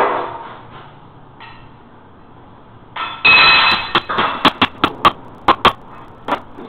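Hand-tool work on a bathroom floor during a repair: one sharp knock, then about three seconds in a loud harsh noisy stretch followed by a quick, uneven run of about seven sharp knocks.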